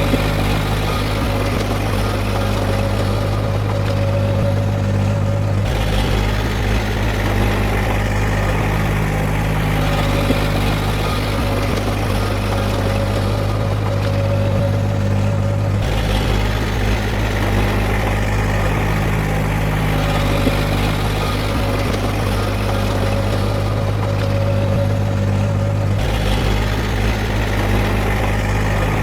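Diesel engine of heavy earthmoving equipment running steadily, with an abrupt change in its sound about every ten seconds.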